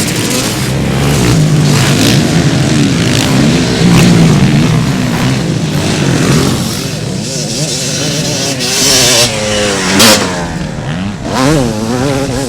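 Motocross bike engines revving hard, their pitch repeatedly climbing and dropping as the bikes accelerate and pass. A single sharp crack about ten seconds in.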